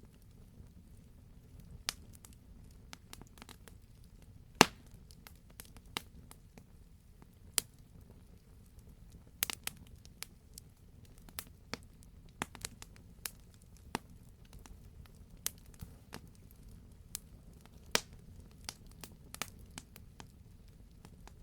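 Wood fire burning in a fireplace: irregular crackles and sharp pops over a low steady rumble of the flames, with a loud pop about four and a half seconds in and another near the end.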